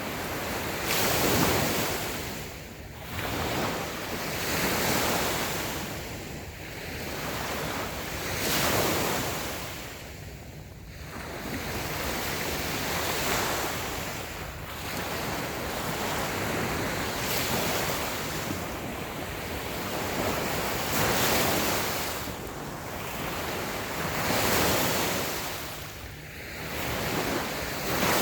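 Small waves washing onto a sandy beach, each one swelling and ebbing every few seconds, with some wind on the microphone.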